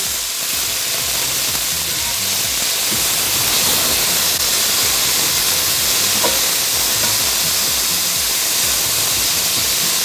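Diced raw chicken frying in oil in a hot cast iron skillet, with frozen cauliflower gnocchi browning in butter in a second pan: a steady sizzle.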